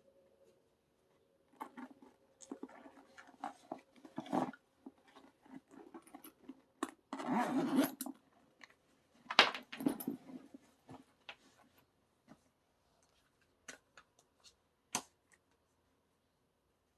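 Handling noise as album packaging and inserts are gathered up: irregular rustling, clicks and knocks, with a longer rustle about seven seconds in and sharp clacks a little later and near the end.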